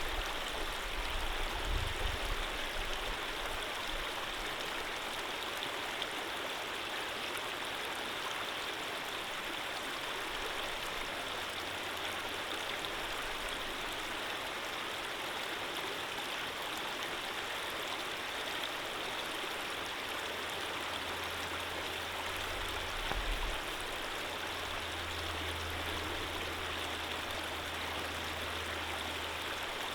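Running water flowing steadily, a gentle stream with an even rushing sound. A faint low hum comes and goes underneath, most noticeable in the latter part.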